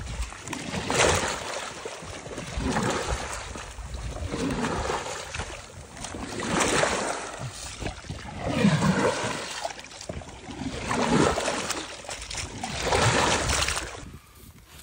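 Water splashing in repeated strokes, a swell roughly every two seconds, stopping just before the end.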